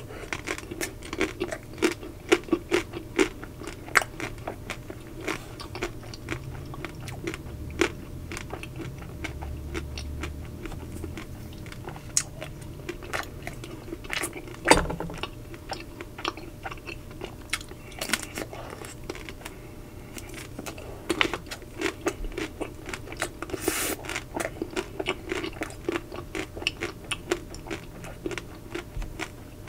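Close-miked crunching and chewing of a Magnum Double Sea Salt Caramel ice cream's chocolate shell, with many sharp snaps of the coating breaking between the teeth and one loudest crack about halfway through.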